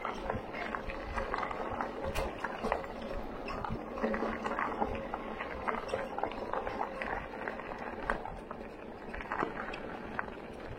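Bicycle rolling over a rough trail: a steady rolling rush with frequent small knocks and rattles at irregular intervals.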